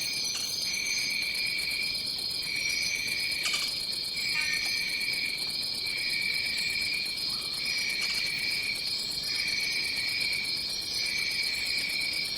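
Tropical rainforest insect chorus. A steady, high-pitched drone runs throughout. Beneath it, a lower trilling call switches on and off roughly every second, with a fast, even ticking above and short scattered higher calls.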